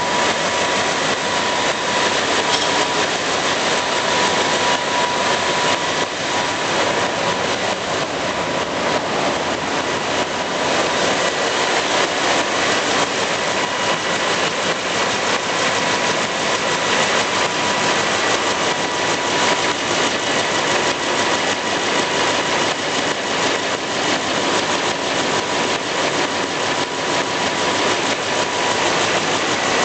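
Engine running steadily at constant speed, a dense even noise with a faint steady whine.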